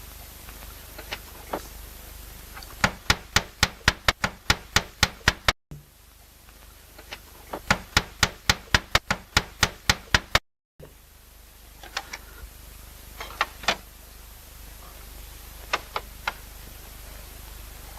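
Slate roofer's hammer striking slate in quick runs of sharp taps, about four to five a second, that break off abruptly twice, followed by a few scattered single taps.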